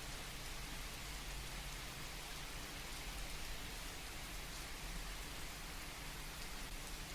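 Steady rain falling, a continuous even patter with no breaks.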